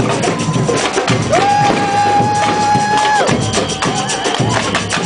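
Street procession band music: drums beating under one long held high note that lasts about two seconds, with a dense crowd din and sharp cracks throughout.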